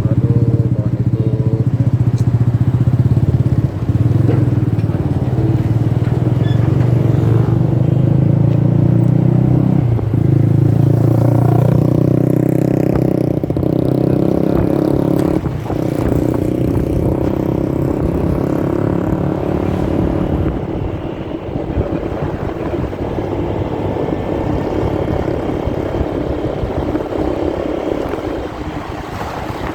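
Motorcycle engine running while riding, its pitch shifting a few times, heard muffled through a phone in a pocket with fabric rustling and scraping over the microphone.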